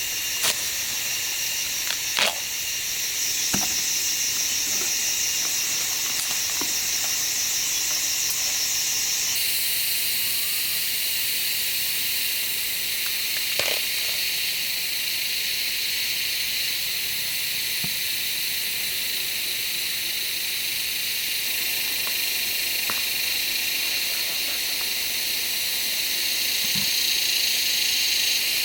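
A steady high-pitched hiss that holds throughout, its pitch makeup shifting abruptly about nine seconds in, with a few faint clicks and taps over it.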